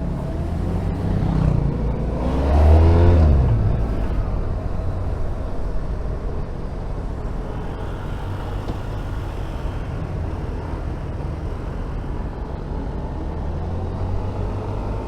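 Honda VFR1200F's V4 engine revs up, loudest about two to three seconds in, then settles back to steady running under a constant low rumble of road and wind noise.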